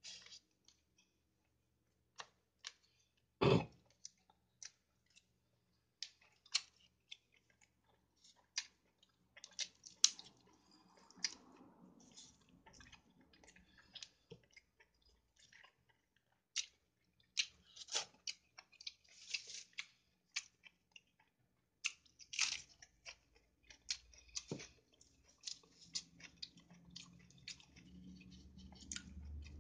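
Close-up chewing and wet mouth clicks of someone eating chicken biryani by hand, scattered sharp clicks throughout, with one louder knock about three and a half seconds in.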